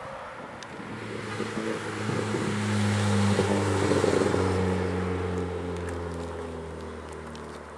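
Volkswagen GTI 1.8T four-cylinder turbo engine running through a 3-inch catless turboback exhaust. The exhaust note holds a steady pitch, swells to its loudest about three to four seconds in, then slowly fades.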